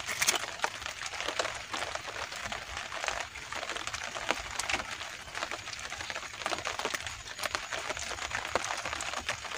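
Steady rain pattering on a tarpaulin boat canopy, a dense patter of many small irregular taps.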